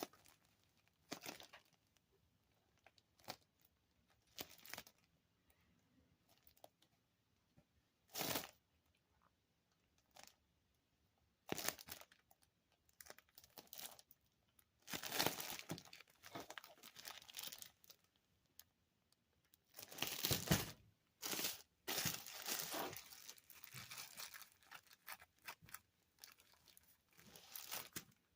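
Plastic bread bag crinkling and rustling in irregular bursts as it is handled and opened.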